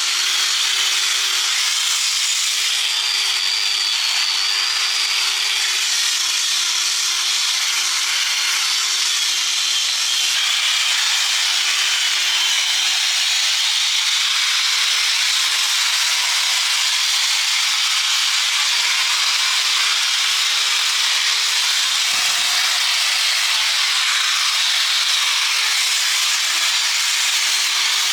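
A power tool grinding or abrading metal, running steadily with a wavering motor hum under a continuous abrasive hiss.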